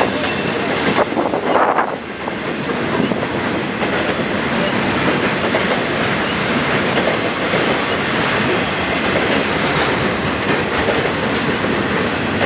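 Cars of a Union Pacific intermodal freight train rolling past close by: a steady loud rumble of wheels on rail, with a few sharp clacks over the rail joints a second or two in.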